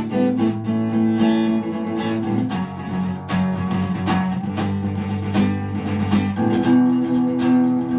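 Acoustic guitar strumming chords as song accompaniment, with steady regular strokes.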